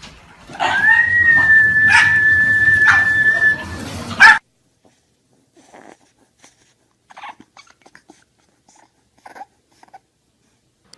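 A dog whining on one long, steady high note for about three seconds, with a few knocks through it and a short loud cry as it ends. After that, faint brief whimpers from a bulldog puppy.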